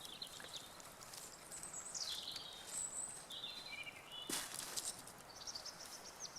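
Small songbirds singing faintly: high, thin phrases, a falling sweep and short trills. A sharp click comes about four seconds in.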